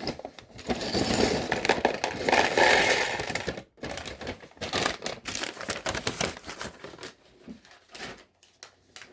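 A paper LEGO parts bag crinkling while small plastic LEGO pieces clatter out of it, dense and loud for the first three and a half seconds. After that come sparser clicks of pieces being handled, which fade toward the end.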